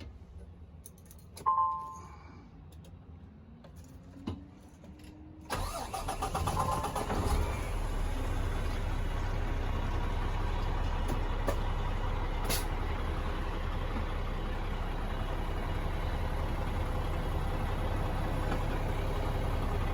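Peterbilt 579 day cab's diesel engine being started. A brief beep comes about a second and a half in, then a rising whine as it cranks, and the engine catches about five seconds in and settles into a steady idle.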